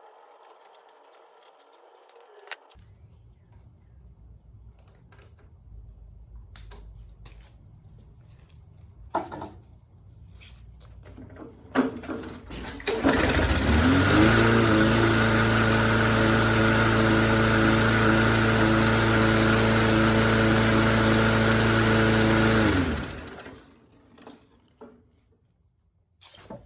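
Small gas engine of a walk-behind MTD lawn mower catching about thirteen seconds in, revving up and running steadily at full speed for about ten seconds, then shutting off and spinning down. Before it catches there are a few knocks over a low rumble.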